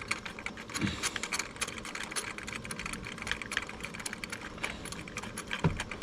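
Hand ratchet clicking in a fast, uneven run of small clicks while running new spark plugs into the cylinder head.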